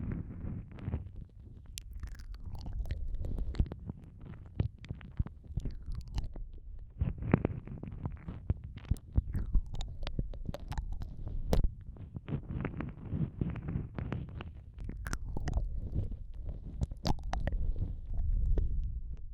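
ASMR ear-eating mouth sounds on a microphone's ear: irregular wet clicks and smacks of lips and tongue over a muffled low rumble of the mouth pressing on the microphone.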